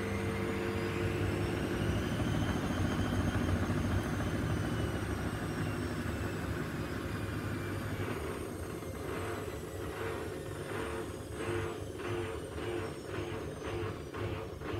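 Gorenje SensoCare washing machine's drum motor running down: its whine falls in pitch as the drum slows. From about halfway on, a regular swish-thump comes roughly twice a second as the drum turns slowly with the laundry.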